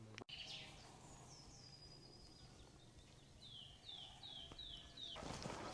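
Quiet outdoor ambience with faint bird calls: a high whistle early, then a run of about five short, falling chirps. A louder rush of noise comes in near the end.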